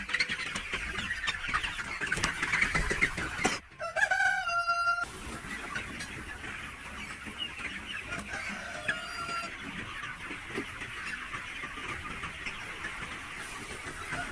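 A flock of chickens, capons being raised for meat, clucking and calling. About four seconds in, after a sudden break, one bird gives a loud pitched crow lasting about a second. The flock then goes on more quietly, with a single shorter call near the middle.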